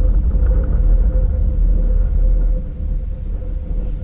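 Grand Elk Railroad freight train pulling away: a deep, steady rumble with a faint steady hum over it, easing off slightly in the second half.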